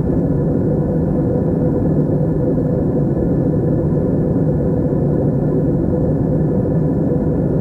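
Airplane cabin noise in flight: a constant low rumble of engines and rushing air, with a faint steady hum in it.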